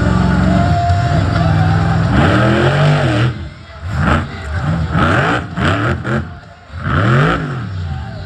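Monster truck engine running hard, then blipped on and off the throttle in quick bursts from about two seconds in, its pitch swooping up and down with each blip, while the truck performs a reverse 'moonwalk' trick.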